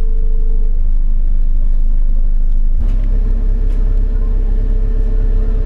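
Enviro400 BAE hybrid double-decker bus drivetrain running, heard on board: a heavy low rumble with a steady whine over it. The whine drops out about a second in and comes back after about three seconds, just as the rumble suddenly grows heavier.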